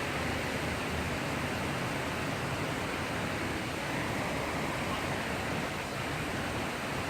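Steady heavy rain during a thunderstorm, an even downpour hiss with no distinct thunderclap.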